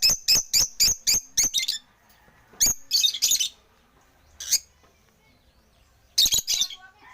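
African lovebirds chirping: a quick run of sharp, high chirps, about four a second, for the first couple of seconds, then short bursts of chirps with quiet gaps between them.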